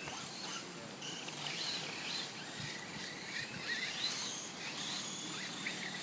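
Birds chirping and calling outdoors, several short rising and falling chirps overlapping over a faint steady background hiss.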